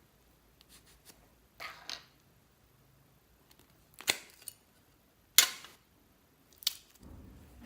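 Slime being squished and pressed by hand: a handful of separate short, sharp crackling pops and squelches, the loudest about five and a half seconds in, with a low rumbling handling noise near the end.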